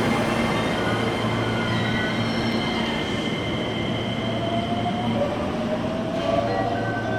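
An electric commuter train on JR West's Takarazuka Line running along the station platform. Its motors whine with a pitch that slowly rises, as when the train gathers speed, over a steady low hum and thin high wheel tones.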